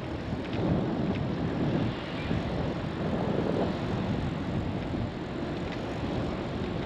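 Steady rushing wind noise over the microphone of a camera on a moving bicycle, with the rolling hum of the ride beneath it.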